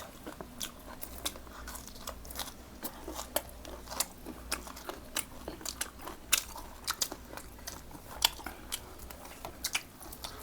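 A person chewing and biting food close to the microphone: irregular crisp crunches and wet mouth clicks, several a second.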